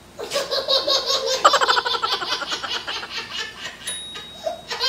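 Laughter: a run of quick, repeated laughing bursts that starts just after the opening and fades out after about three seconds.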